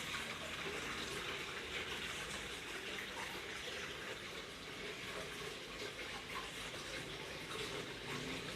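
Water falling down a wall waterfall into a fish pond, a steady, even splashing rush.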